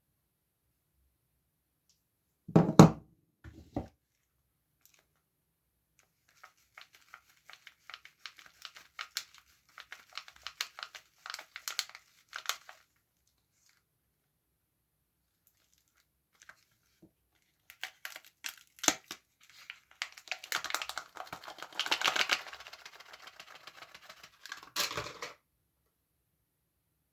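Soap wrappers being crinkled and torn open in stretches of crackly rustling, the second stretch louder, after a short knock about three seconds in.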